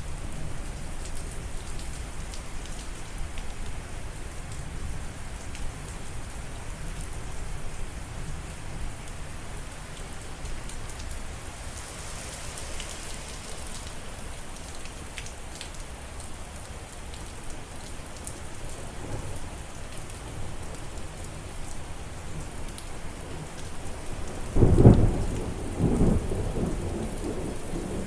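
Steady rain falling, with a loud low rumble of thunder near the end.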